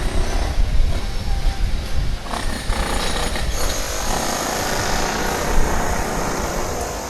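Wind buffeting the microphone over a steady low rumble and rattle from a bicycle rolling over paving.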